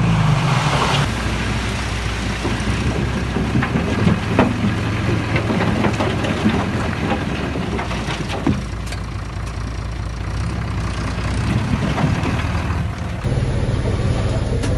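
Diesel engine of heavy earth-moving machinery running steadily under a low hum, with scattered clanks and knocks throughout. The sound changes abruptly near the end.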